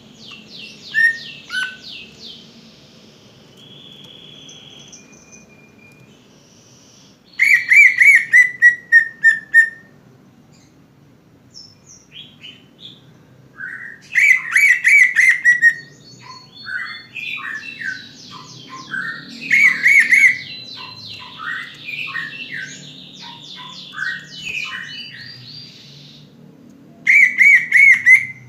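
Cucak ijo (greater green leafbird) song: loud bursts of rapid repeated notes come four times, with softer whistles, chirps and sweeping notes between them. A faint low hum runs underneath.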